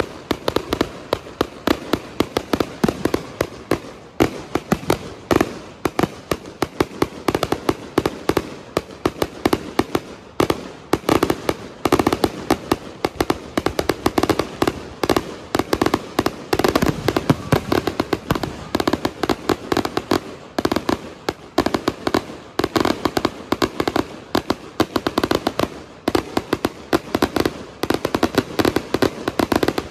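Fireworks going off in a continuous barrage: rapid sharp pops and bangs, many a second, without a break.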